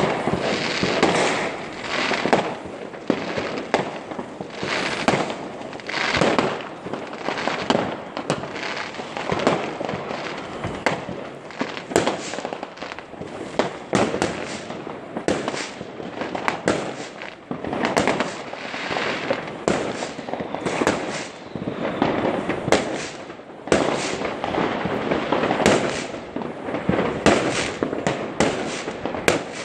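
Many fireworks going off without pause: overlapping bangs and crackling bursts, one after another.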